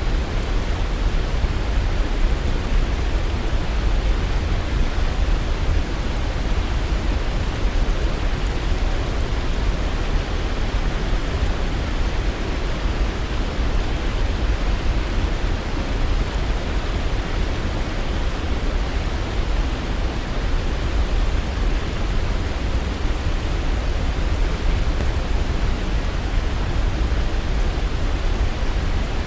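Waterfall: a steady, unbroken rush of falling water, heaviest in the deep low end.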